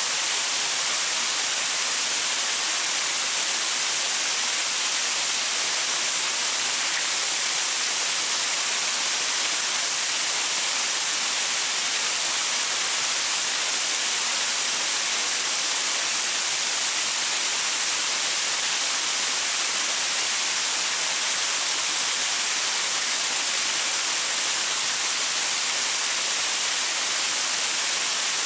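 Waterfall splashing over rocks: a steady, unbroken rush of water, bright and hissy with little low rumble.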